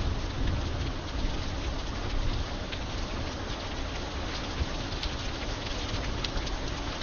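Steady rain falling, with scattered sharper drop ticks over a low rumble.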